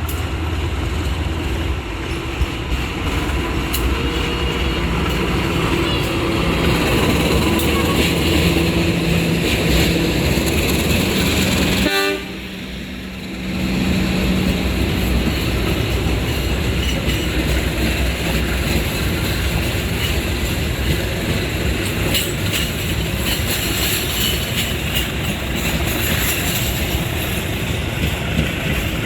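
Diesel-hauled intercity passenger train moving through the station: locomotive engine running and railway carriage wheels clacking over the rail joints. The sound drops off suddenly for a second or two about twelve seconds in, then resumes.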